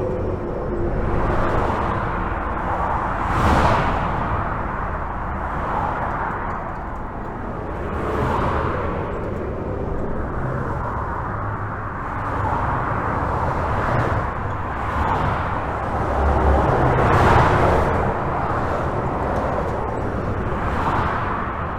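Highway traffic heard from under a bridge: a steady rush of tyres and engines with cars and trucks passing one after another every few seconds, each swelling and fading, over a deep rumble. The loudest passes come about three and a half seconds in and near seventeen seconds.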